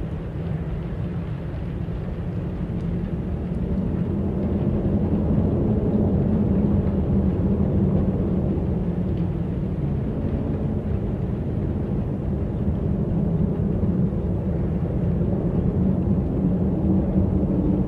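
Wind blowing as a steady low rumble, swelling slightly a few seconds in.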